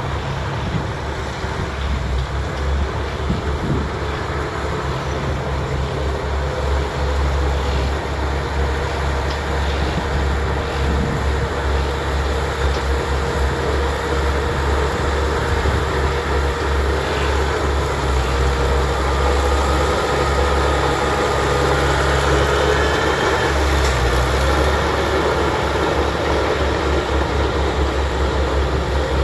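Bulldozer's diesel engine running steadily with a deep, low rumble; a faint whine drifts up in pitch about twenty seconds in.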